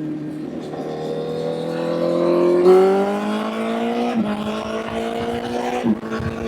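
Honda CBR1000 inline-four motorcycle engine accelerating hard, its pitch climbing steadily, with quick upshifts dropping the revs about four seconds in and again near the end.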